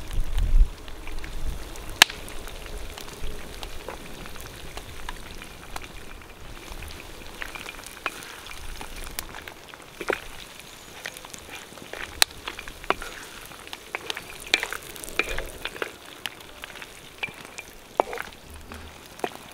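Food frying in hot oil: a steady sizzle with scattered pops and crackles, and a few low thumps near the start.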